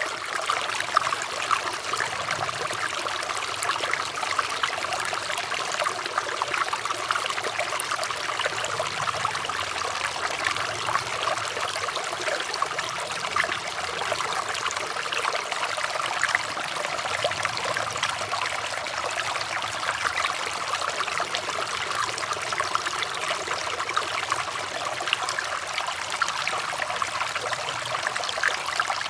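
Water running and trickling steadily, with many small splashes.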